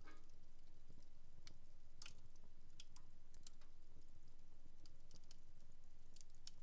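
Wood fire in a home fireplace crackling: irregular sharp pops and snaps, several a second at times, over a faint steady low hum.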